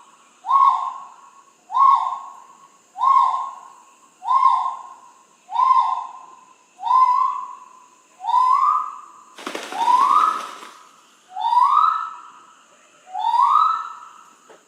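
A bird calling over and over, one whistled note about every second and a quarter; the first notes fall in pitch and the later ones rise. A brief burst of hiss about ten seconds in.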